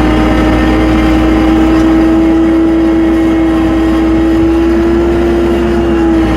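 Tractor engine running steadily at working throttle as the tractor moves off in the snow: a constant hum that creeps up slightly in pitch and eases down near the end.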